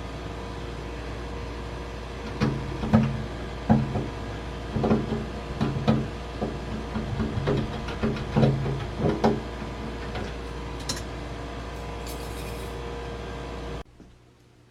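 Steady machine hum with a run of knocks and clunks, like parts being handled or tapped, for several seconds in the middle; the hum stops abruptly near the end.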